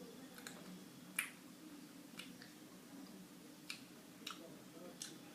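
A few faint, sharp clicks and mouth noises over quiet room tone as someone chews Skittles candies, the strongest click about a second in.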